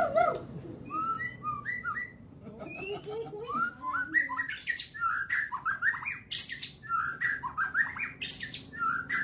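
White-rumped shama (murai batu) singing a fast, unbroken run of varied chirps and whistled notes that slide up and down, with a short lull about two seconds in.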